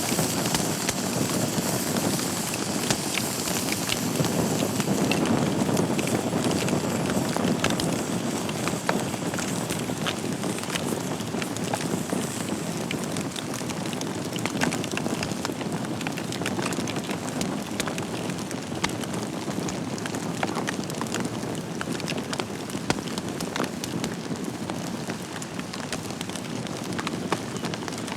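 Wood fire burning in a fireplace: a steady hiss of flames with frequent sharp, irregular crackles and pops from the burning logs.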